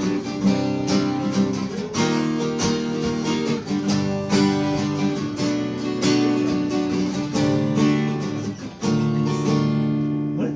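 Acoustic guitar strummed in a steady rhythm, playing a song's opening chords. The strumming stops near the end and the last chord rings out.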